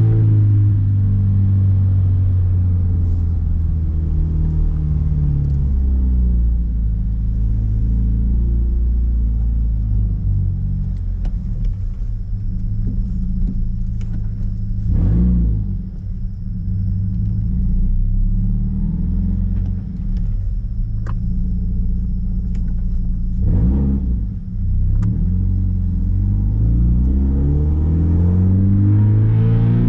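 Scion FR-S's flat-four engine running through an exhaust with the muffler and resonator removed, a deep rumbling drone while driving. It falls in pitch at first, dips briefly twice as the revs change, and rises again near the end as the car accelerates.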